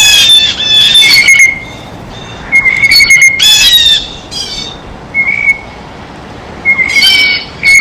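Blue jays calling: a quick run of harsh, squawking jay calls, then more calls in spaced groups with short, clear whistled notes between them.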